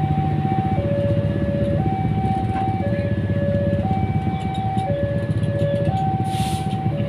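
Passenger train moving slowly past with a steady low diesel rumble. Over it, a two-tone electronic warning alarm alternates high and low about once a second, and a brief hiss comes near the end.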